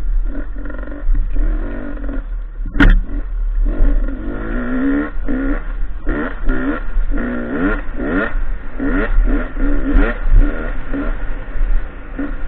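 Enduro motorcycle engine revving up and falling back over and over as the throttle is opened and closed along a dirt trail, over a steady low rumble. A single sharp knock comes about three seconds in.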